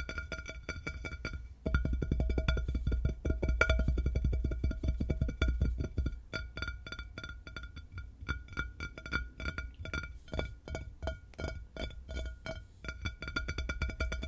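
Fast tapping on a hard, resonant object that keeps it ringing with a steady tone; the taps come thick and quick about two seconds in, then slow to a looser, uneven rhythm.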